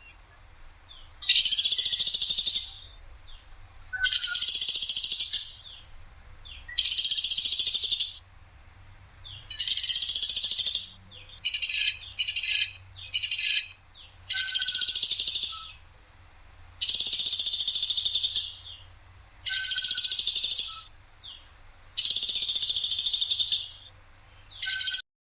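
Woodpecker ('platuk sampit') calling: a loud, high, rattling trill repeated about every two to three seconds, each call lasting about a second and a half, with a quick run of short stuttered calls near the middle. The call is rough and sharp.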